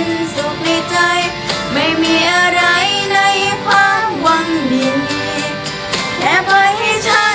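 A voice singing a Thai pop ballad over backing music, with held notes and gliding runs in the melody.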